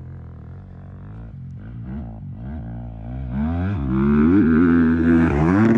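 Dirt bike engine revving, with pitch swinging up and down in quick throttle blips and shifts. It grows much louder from about halfway through.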